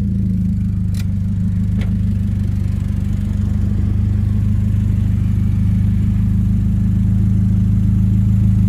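Turbocharged Hyundai Genesis engine idling steadily, with two faint clicks about one and two seconds in.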